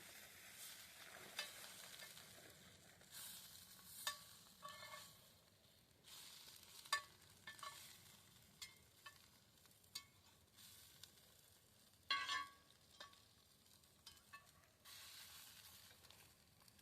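Campfire crackling: irregular sharp pops and snaps over a soft hiss, with a brief louder burst of crackles about twelve seconds in.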